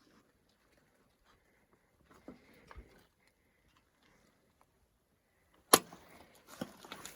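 Footsteps through brush and forest debris: a few soft steps, then a sharp knock near the end followed by rustling, crunching steps.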